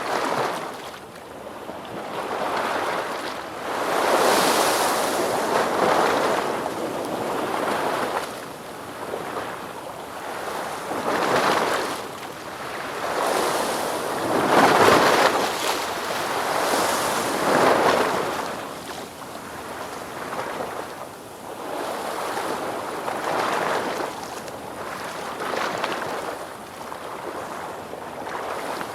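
Ocean waves breaking and washing on a shore, a surge of surf rising and falling every few seconds, strongest about halfway through.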